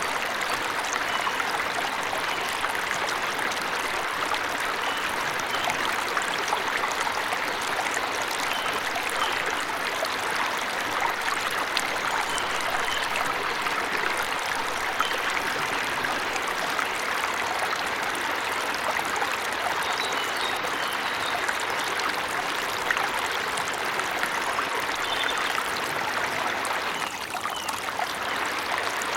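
Forest waterfall and stream running steadily, with faint short bird chirps now and then above the rush of water. The sound dips briefly near the end.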